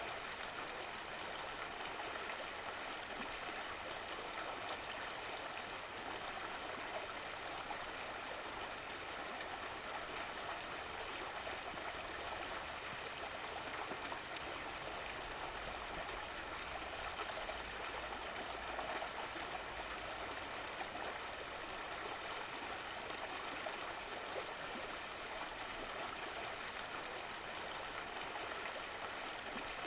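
Stream of running water, flowing and trickling steadily over stones with a gentle gurgle.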